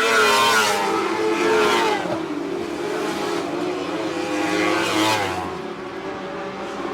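Lightning sprint car engines running hard on the speedway, the pitch rising and falling as the throttle is worked through the corners. The sound is loudest in the first couple of seconds and drops back after about five seconds.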